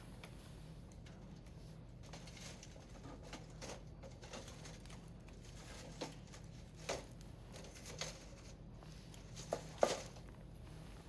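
Firewood burning in a Picogrill fire pit, crackling faintly with scattered pops. A few sharper snaps come in the second half, the loudest a quick double snap near the end.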